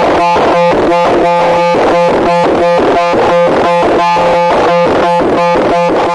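A loud, harsh electronic noise: steady held tones chopped by a rapid, even pulsing of about five beats a second.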